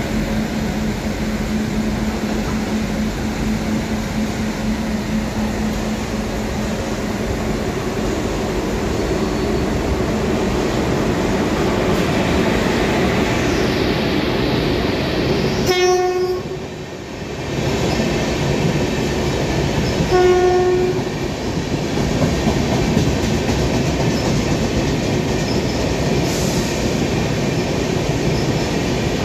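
Indian Railways passenger train running through the station at speed, with the steady noise of its wheels and coaches passing close by. Two short locomotive horn blasts sound about four seconds apart, past the middle.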